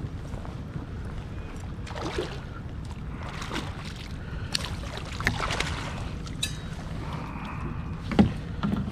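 Water sloshing and lapping around a kayak on a river, with scattered small clicks and knocks and one sharp knock near the end.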